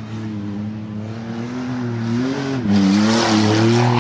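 Dirt-track race car engines running and revving, pitch rising and falling. It gets louder and harsher about two and a half seconds in as an engine is pushed hard.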